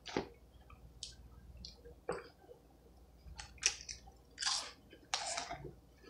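Potato chips being bitten and chewed close to the microphone: a string of short, irregular crunches.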